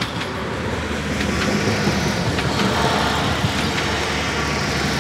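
A passenger train passing over a level crossing: the rumble of its wheels and running gear builds about a second in, with sharp clacks as the wheels cross the rail joints. The crossing's AWD 2000 warning bell keeps ringing faintly beneath.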